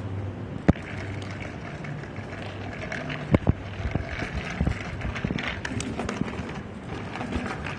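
Bicycle riding along with a steady low rumble of rolling tyres, sharp knocks just under a second in and twice around three and a half seconds in, then frequent small rattling ticks.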